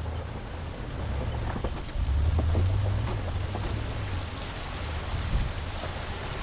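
Ram 1500 Rebel pickup driving on a rough dirt mountain trail: a low, uneven rumble with wind buffeting the microphone and a few scattered clicks and knocks.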